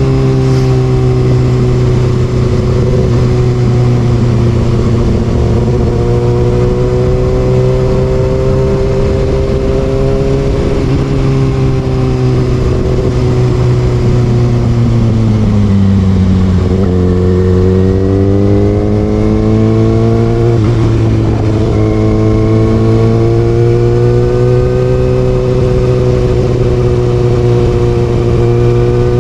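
Kawasaki Ninja ZX6R inline-four with an Austin Racing aftermarket exhaust, running under way at steady revs. About halfway through, the engine note drops and then climbs back, holding steady again to the end.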